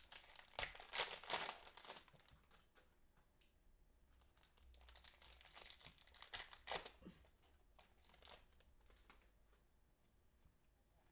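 Crinkling and tearing of a cellophane trading-card pack wrapper being opened, in two spells: during the first two seconds and again about five to seven seconds in, then only faint ticks.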